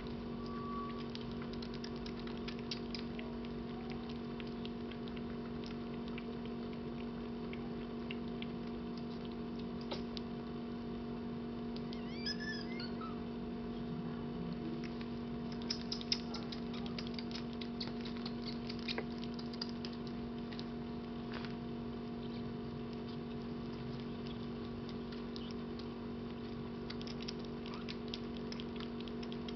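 Young kittens suckling milk from a feeding bottle: rapid wet clicking and smacking, thicker in stretches, over a steady low hum, with one short high squeak about twelve seconds in.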